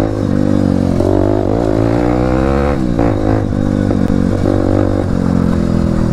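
Motorcycle engine running under acceleration while riding, its pitch climbing and then dropping about three seconds in as it shifts gear.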